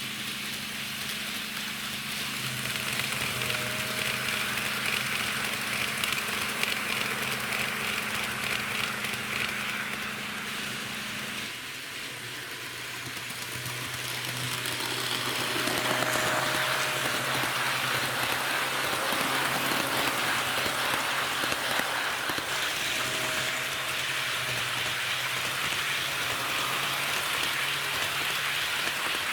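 HO gauge model diesel railcars running on track: a steady rattling hiss of wheels on the rails over a low electric motor hum. One of the hums stops about twelve seconds in, and there are three brief faint whines.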